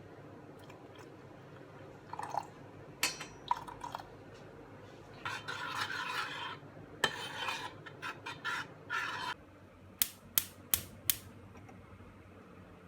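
Kitchen utensil sounds: cutlery and dishes clinking, with stretches of scraping or stirring against a dish, and a quick run of four sharp clicks near the end.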